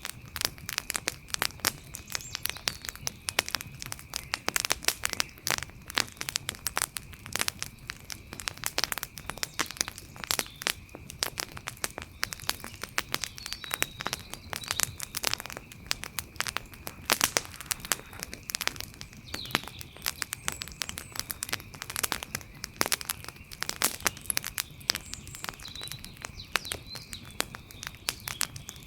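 Wood fire crackling, with a continuous run of irregular sharp pops and snaps. A faint steady high-pitched drone runs behind it.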